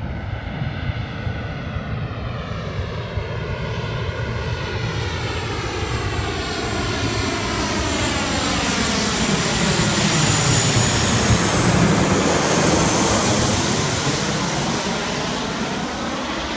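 Jet airliner passing close by, its engine noise swelling to a peak about eleven seconds in and then fading, with a high fan whine at its loudest.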